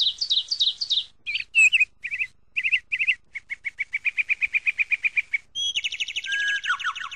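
Bird song: a series of varied chirps and whistled trills, with a fast run of repeated notes, about eight a second, in the middle.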